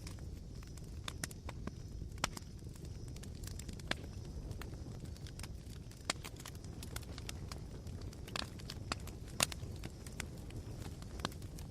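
Campfire embers crackling: scattered sharp pops and snaps, a few louder ones, over a low steady rumble.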